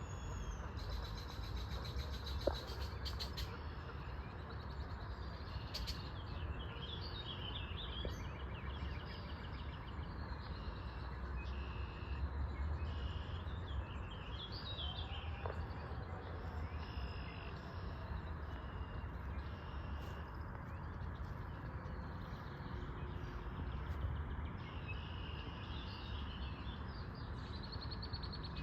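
Small birds chirping and singing in short high phrases over a steady low rumble of background noise, with one sharp click about two and a half seconds in.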